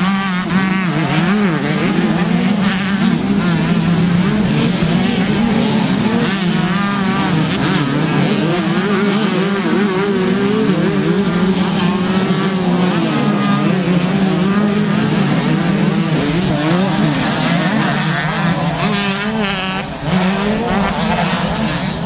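125 cc two-stroke motocross bike engines racing, revving up and down continuously with shifting pitch, with a brief dip in level near the end.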